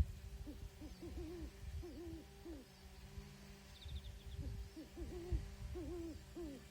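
A bird calling in a run of short, low hoots, some in quick pairs, faint over a steady background hum.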